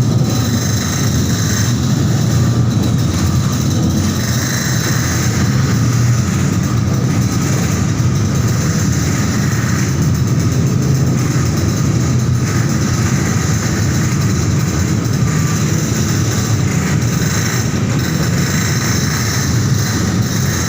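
Steady, loud engine rumble inside a passenger car ferry as it comes in to dock, with a hiss over it.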